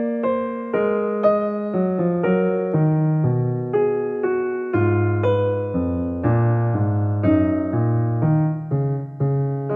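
Electric piano music: chords and a melody in a steady rhythm, each note struck and fading.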